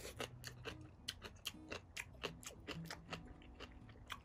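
Close-up chewing of ramen noodles: a quiet, irregular run of wet mouth clicks and smacks, several a second.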